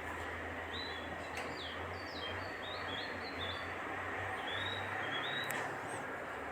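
A small bird chirping in a quick series of short, high chirps, over a steady low hum and faint background hiss.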